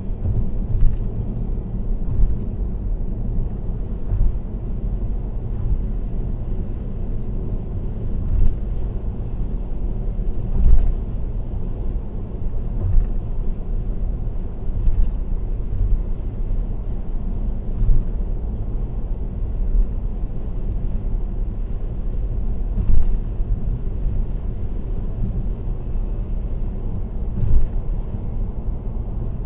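Steady low rumble of a car's road and tyre noise at expressway speed, picked up by a dashcam, with a short knock every few seconds at uneven intervals.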